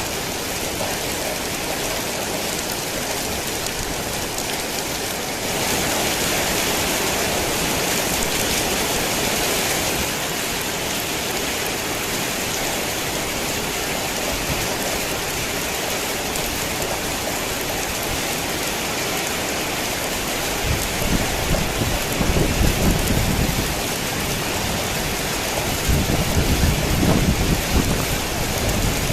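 Heavy rain falling steadily, heavier for a few seconds in the first third, with low rumbles of thunder rolling twice in the last third.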